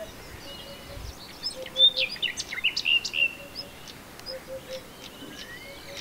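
Several birds singing: high chirps and short trills, busiest in the first half, over a soft low note repeated in threes about once a second.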